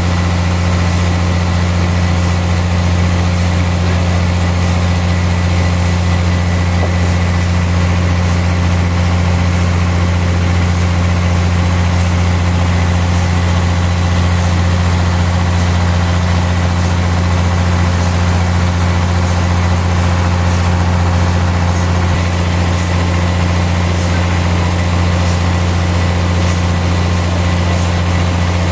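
Sawmill machinery running steadily with an unchanging deep hum, with faint regular ticking above it.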